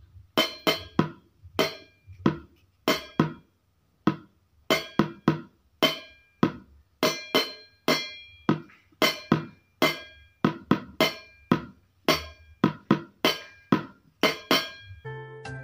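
A run of sharp taps on hard, resonant objects, each ringing briefly with a pitched tone, about two a second in an uneven rhythm.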